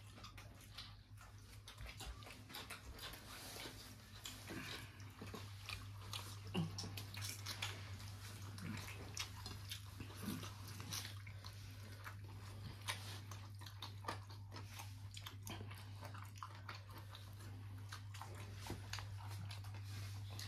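Close-up eating sounds: chewing and mouth smacking as chicken curry with roti is eaten, in many short, irregular clicks and smacks. A steady low hum runs underneath.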